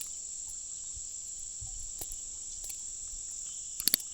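Steady, high-pitched insect chorus with an even, unbroken buzz. A few sharp clicks come close together near the end.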